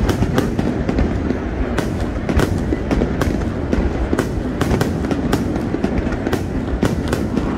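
Aerial fireworks bursting in quick, irregular succession: sharp bangs a few times a second over a continuous low rumble.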